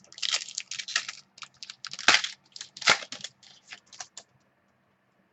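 A quick, irregular run of sharp clicks and taps, two of them louder about two and three seconds in, stopping about a second before the end.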